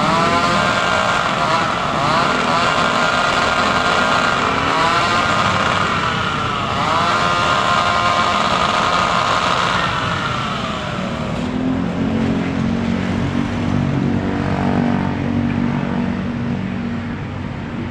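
Chainsaw running at high revs while cutting tree branches, its pitch dipping several times as it labours in the wood. About eleven seconds in it drops to a lower, steadier run.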